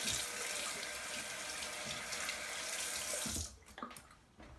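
Sink tap running water in a steady stream, shut off about three and a half seconds in, followed by a few faint knocks.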